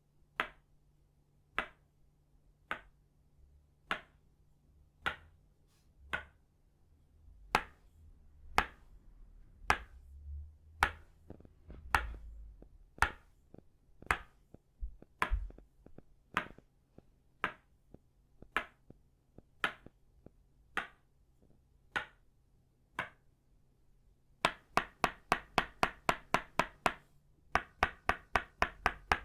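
Tok sen massage tools, an itaúba wooden mallet striking a wooden stake, giving sharp wooden knocks about once a second. Near the end the strikes quicken to a fast run of about four a second. A faint low rumble sits under the knocks partway through.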